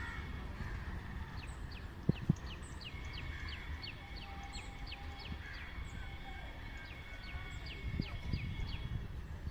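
Birds chirping in a quick run of short, high, falling notes, about three a second, over a low background rumble. Two sharp knocks come about two seconds in.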